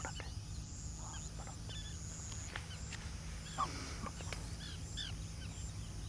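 Birds calling: many short, high chirps in quick, irregular succession over a steady low rumble. There is a single sharp click a little past halfway.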